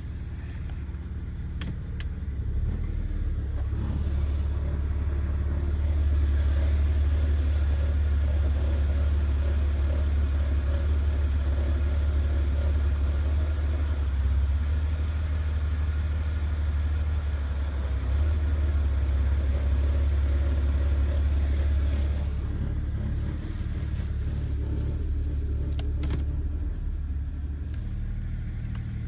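2011 BMW 328i with its N51 inline-six, making a low groaning noise. The groan swells a few seconds in, holds steady, and eases off about three quarters of the way through.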